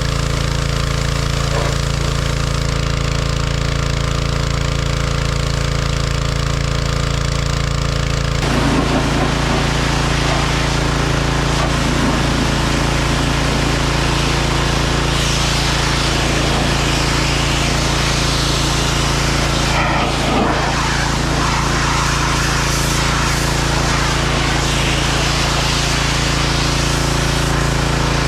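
John Deere 1025R compact tractor's three-cylinder diesel running steadily at working speed while it powers the 260B backhoe. About eight seconds in, irregular scraping and knocking joins it, typical of the bucket digging into soil.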